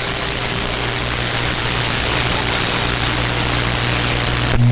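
CB radio receiver hissing with static and a steady low hum: a station keyed down on the channel without talking. The hiss grows slowly louder, and near the end a stronger, steady hum tone comes in.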